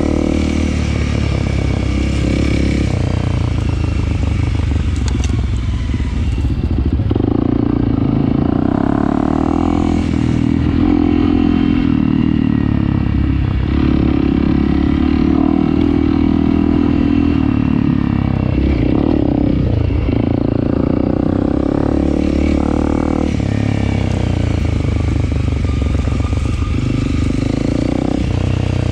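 Honda CRF300L single-cylinder four-stroke dirt bike engine running off-road, its pitch rising and falling as the throttle opens and closes, with occasional clatter from the bike over rough ground.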